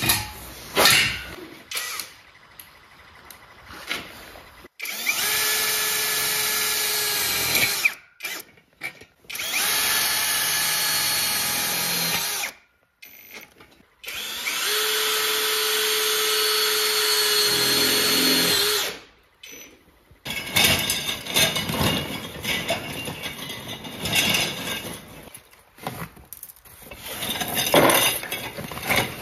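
Electric drill driving screws into guardrail parts, running in three steady runs of three to four seconds each with a whine that holds one pitch. Knocks and clatter from handling the parts come between the runs.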